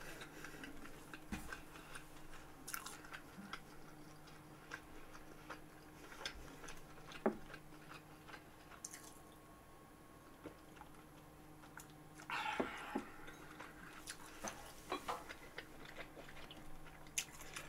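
Faint chewing and small wet mouth clicks of a person eating French toast, with a brief louder patch of sound about twelve and a half seconds in.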